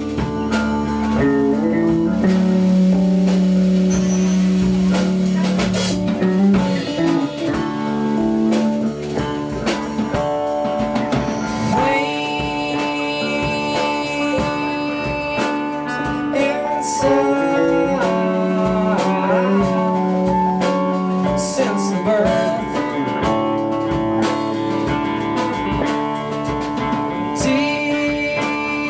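Live band playing a blues-flavoured song, with guitar and a drum kit.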